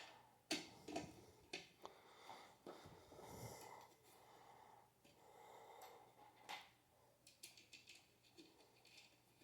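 Near silence, with a few faint scattered clicks and taps of screws and metal ceiling-fan parts being handled.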